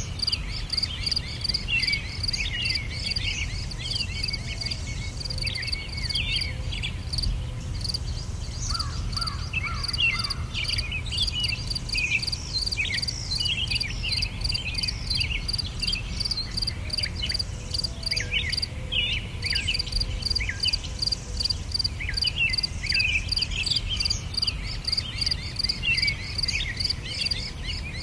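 Small birds chirping and twittering in many short quick notes over an insect's steady, evenly pulsing high trill, with a low outdoor rumble underneath.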